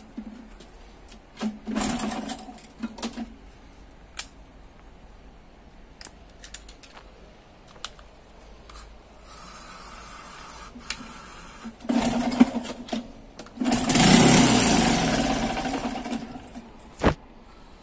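Old scrap motorcycle engine, primed with brake cleaner spray, firing in short sputtering bursts, then catching for a few seconds before winding down and dying. A steady hiss is heard about halfway through.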